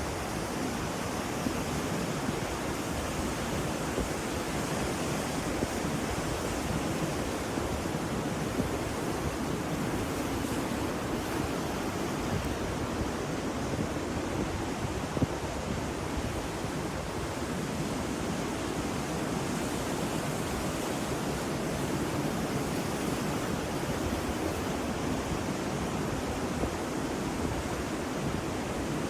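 Ocean surf washing steadily, an even rushing noise with no single breaking wave standing out.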